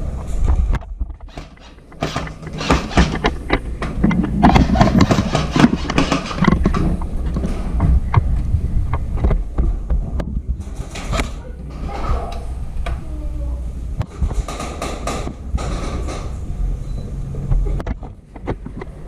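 Movement noise of a player in an airsoft game: rustling, knocks and runs of rapid clicks over a low rumble, busiest a few seconds in and again in two shorter spells later.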